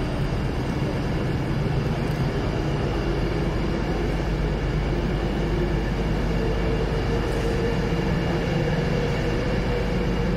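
Passenger train moving along a station platform: a steady low rumble and drone of the train running, with a humming tone coming in over the second half.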